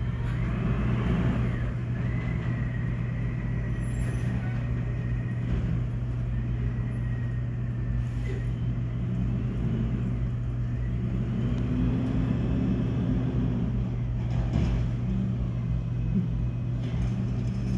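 Garbage trucks' diesel engines running steadily close by: a loud, constant low hum whose pitch swells up and down now and then, with a thin high whine in the first few seconds.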